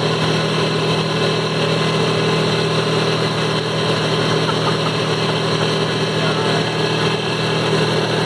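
ATV engine running at a steady, unchanging pitch.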